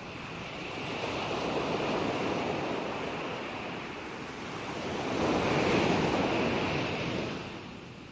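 Ocean waves breaking and washing up on the shore: two swells of surf, the second louder, about halfway through, then subsiding near the end.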